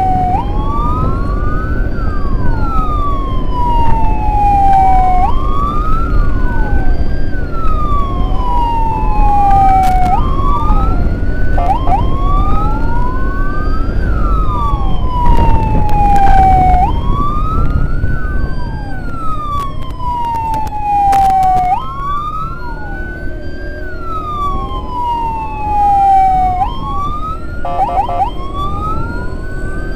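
Emergency sirens on the escorted ambulance and its escort wailing continuously. Two sirens run out of step, each sliding slowly down in pitch and then sweeping back up every few seconds, over a low rumble of engine and road noise.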